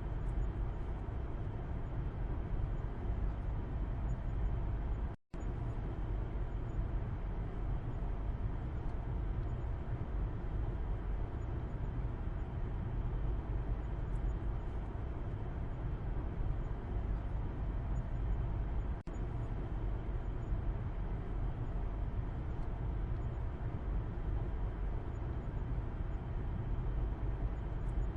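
Steady low rumble of road and engine noise inside a moving car's cabin, heard from the back seat. The sound cuts out completely for a split second about five seconds in.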